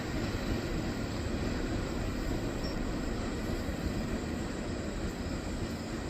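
Steady low rumble and rail noise of a freight train's wheels on the track as the train moves away.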